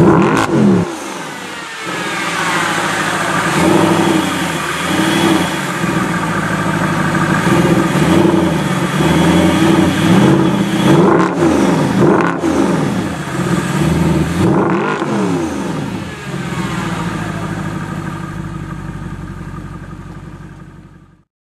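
Mercedes SLS AMG's 6.2-litre V8 accelerating hard through several gear changes: the engine pitch climbs, then drops at each upshift. The sound fades out near the end.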